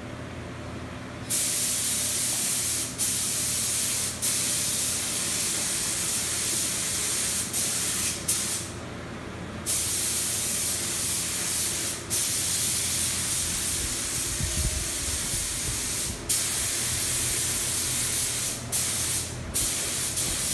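Paint being sprayed in long bursts of hiss that start about a second in and stop briefly many times, with a longer break around eight to ten seconds in. A steady low hum runs underneath.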